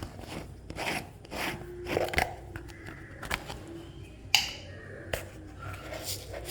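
Kitchen utensils and containers clattering and scraping during cooking: a run of irregular clicks and knocks, the loudest about four and a half seconds in.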